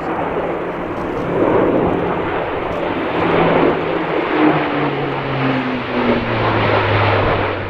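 Airbus A400M Atlas's four Europrop TP400 turboprop engines and propellers running loud during a display pass. The propeller hum drops in pitch over the second half as the aircraft goes past.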